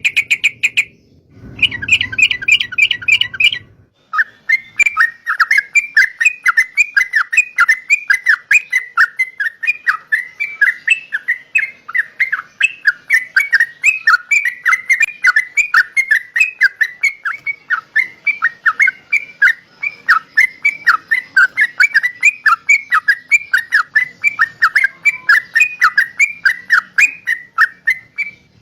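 Yellow-vented bulbul (trucukan) singing. Two short bursts of rapid notes are followed, about four seconds in, by a long unbroken chattering run of quick down-sweeping notes, about five a second.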